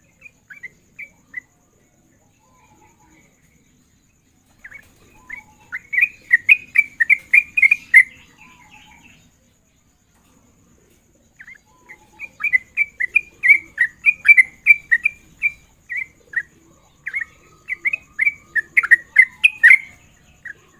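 Sooty-headed bulbul (trucukan) song: quick runs of repeated, chattering notes in several phrases a few seconds long, with short pauses between them.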